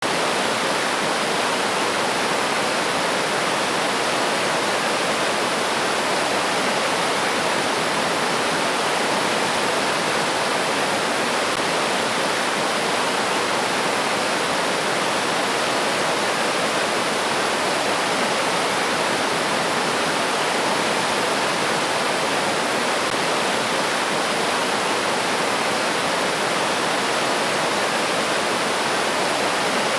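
River water flowing, a steady, even rush that does not change in level.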